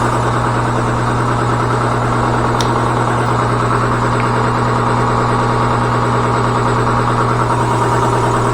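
Steady, loud machine drone with a strong low hum that does not change, with one faint tick between two and three seconds in.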